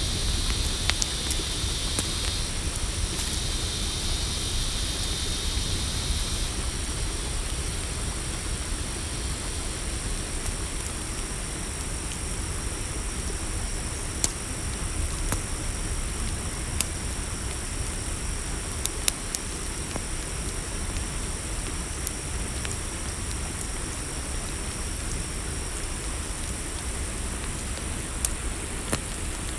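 Campfire crackling with a few sharp, sparse pops over a steady low rumble, with crickets chirping at a steady high pitch; one higher insect layer stops about six seconds in.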